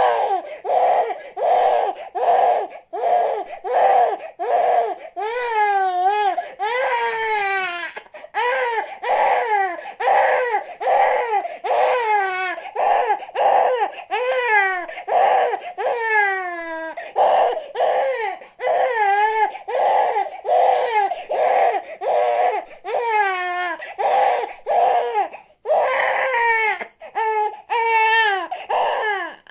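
Newborn baby crying without a break: short cries about two a second, with several longer wails that fall in pitch.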